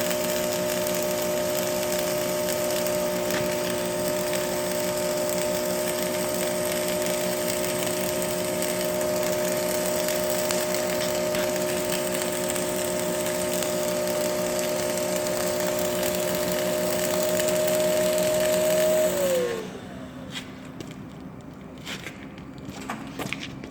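Electric power tool motor running steadily with a hiss, then switched off about 19 seconds in, its pitch falling as it winds down, followed by a few light clicks.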